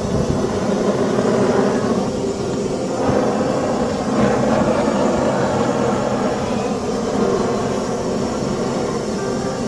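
Fire burning across a mat, a steady rumbling roar with no sharp pops.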